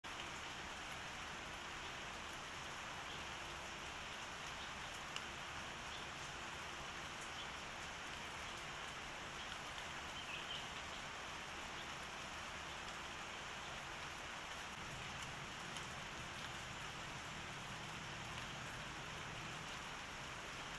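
Steady hiss like light rain falling, with a few faint ticks scattered through it.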